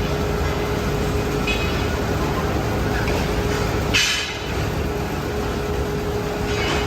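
Steady factory machinery noise with a constant hum, and a brief sharp noise about four seconds in.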